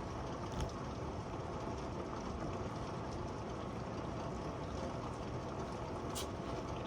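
Very heavy rain falling in a steady hiss, with a sharp click just after the start and another about six seconds in.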